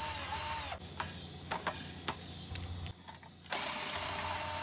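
Cordless ratchet running in two bursts, one ending under a second in and another from about three and a half seconds in, each closing as the motor winds down, spinning out the 3/8 bolts of a mower engine's recoil cover. A few light clicks come between the bursts.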